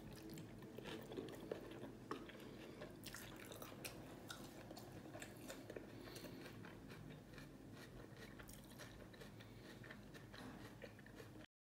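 Someone eating stir-fried pork liver with chopsticks: faint chewing with many small clicks and taps, over a steady low hum. It cuts off suddenly near the end.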